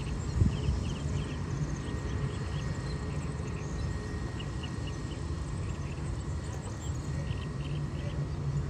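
Small birds chirping in short notes, in little clusters a few times a second, over a steady low rumble.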